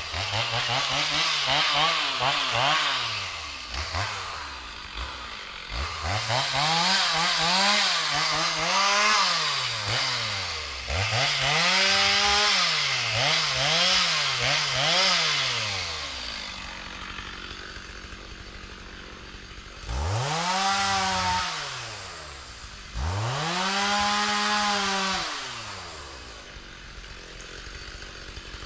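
Two-stroke chainsaw revved over and over, its pitch climbing and falling with each squeeze of the throttle. About sixteen seconds in it drops to a steady idle, then it is revved twice more and settles back to idle.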